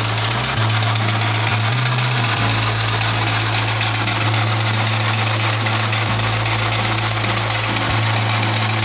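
Advance steam traction engine running on the belt, driving a long flat drive belt: a steady low drone with an even hiss over it.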